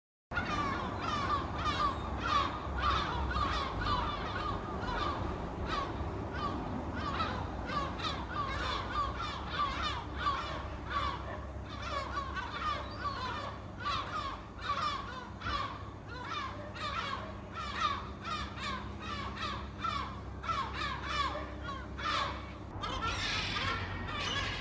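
A flock of gulls calling, many short cries overlapping into a dense, continuous chorus over a steady low rumble. The sound cuts in suddenly just after the start.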